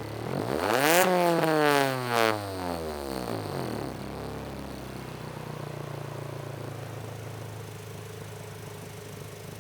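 Acura RSX's 2.0-litre four-cylinder engine with a loud custom exhaust, revved sharply once about half a second in with a short second blip near two seconds. The revs then fall back and it settles to a steady idle.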